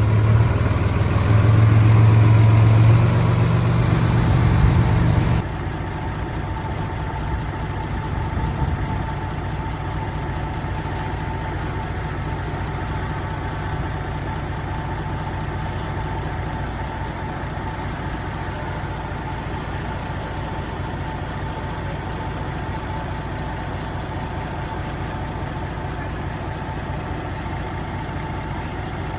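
Diesel engine of heavy earthmoving machinery running. It is louder for about the first five seconds, then drops suddenly to a steady, quieter run.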